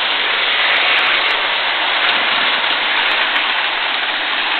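Model train running along the track: a steady whirring rush of motor and wheels on rail, with a few light clicks.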